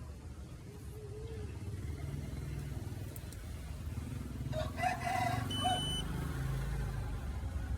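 A rooster crowing once, about four and a half seconds in, over a steady low rumble.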